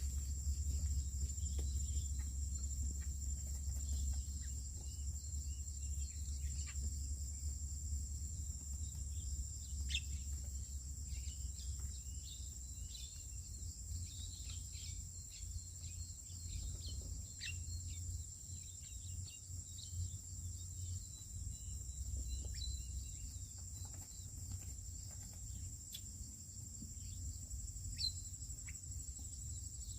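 Chorus of insects making a steady, high-pitched trill without a break, over a low rumble, with scattered faint short chirps and clicks.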